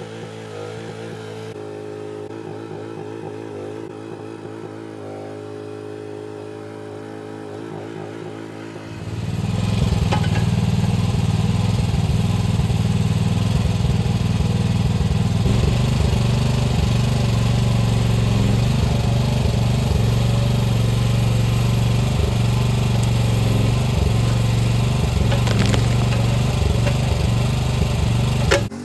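Mini excavator's diesel engine running, at first low and steady, then about nine seconds in throttled up quickly to a loud, steady working speed that holds until it cuts off abruptly near the end.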